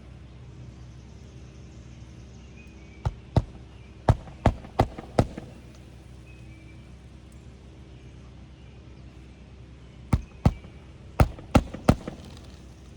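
Hammer driving roofing nails through an asphalt shingle into the roof deck: two runs of sharp blows, about six and then about five, a few tenths of a second apart.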